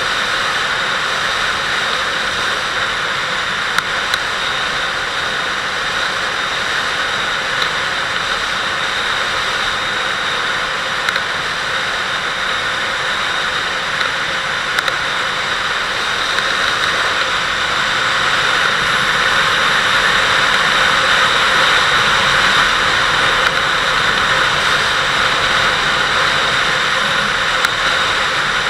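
Wind rushing over the microphone on a moving Kawasaki Vulcan 800 motorcycle, with its V-twin engine running under the wind noise. The rush grows louder a little past halfway.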